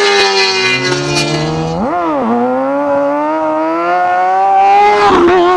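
Sportbike engine and exhaust revving: a few sharp cracks in the first second, then a quick blip of the throttle about two seconds in. After that the note climbs steadily as the bike accelerates, and it wavers and drops near the end.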